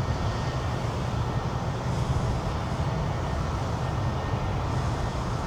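Steady low rumble with a fainter hiss above it, without breaks.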